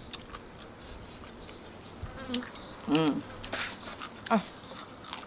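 People chewing small-boned fried field rat, with small mouth and bone clicks, and an insect buzzing close to the microphone. Two brief vocal sounds come about three and four seconds in.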